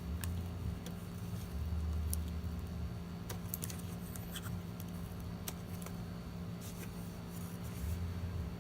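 Scattered light clicks, taps and scrapes of small hard parts and tools being handled during iMac disassembly, over a steady low hum.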